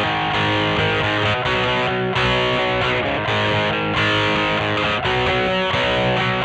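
Squier Vintage Modified Jaguar electric guitar played through an amp with a distorted tone, chords strummed in a steady rhythm.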